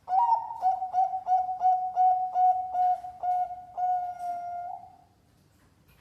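Zebra dove (perkutut) cooing a contest-class song: one phrase of about a dozen short, rapid coos at roughly three per second, ending in a longer held coo that fades about five seconds in.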